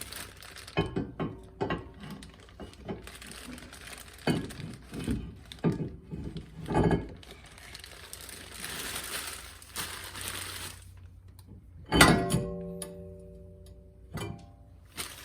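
A new brake rotor being fitted onto the rear hub: a run of metal knocks and clicks, then a loud clank about twelve seconds in that leaves the rotor ringing with several steady tones for about two seconds, and a shorter ringing knock near the end.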